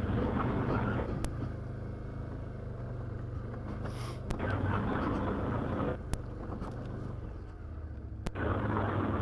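Can-Am Outlander 850 XT ATV's V-twin engine running at trail speed, swelling louder with more throttle near the start, in the middle and near the end. A few sharp clicks sound over it.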